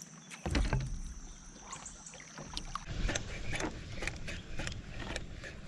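Paddling a paddle board on a river: water splashing and short knocks, with low rumbling bumps on the microphone.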